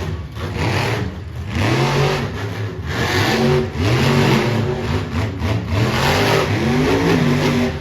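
Monster truck engine revving hard, its pitch rising and falling again and again in quick surges.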